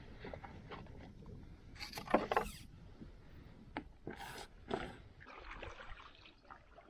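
Kayak paddle dipping and splashing in water in a few irregular strokes, loudest about two seconds in and again just after four seconds, over a low rumble of wind.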